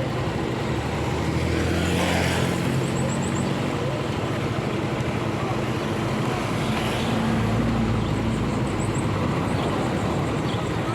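Motorcycle engine running with wind and road noise during a ride, the engine note shifting a little. Noise swells briefly twice, about two seconds in and about seven seconds in.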